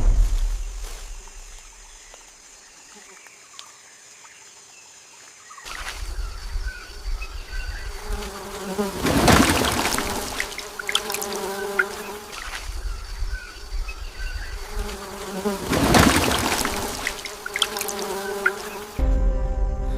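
A low rumble fades out over the first two seconds. From about six seconds in, a buzzing insect sound starts, like a fly or bee. It swells loudly twice, as if the insect passes close by, in a repeating pattern.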